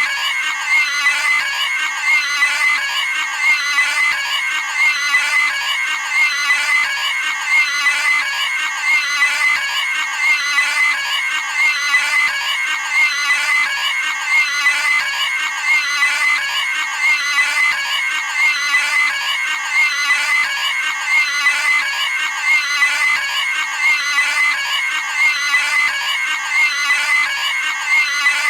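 Cartoon pig squealing: one short, high-pitched scream repeated over and over in a loop at an even pace.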